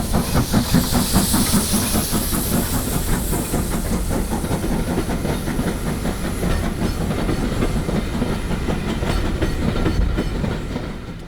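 LMS Stanier Black Five steam locomotive working a train, its exhaust beats and steam hiss over the rhythmic clatter of the train on the rails. The sound fades out sharply at the end.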